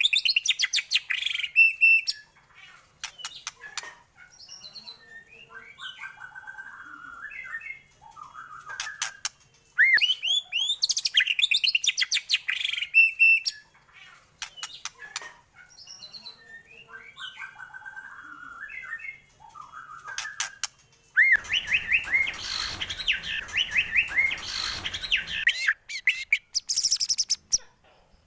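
White-rumped shama (murai batu) song: loud bursts of rich gliding whistles and rapid trills with quieter gaps between, the same phrase returning about every ten seconds as a looped bait recording. A hissier passage comes a little after two-thirds of the way through.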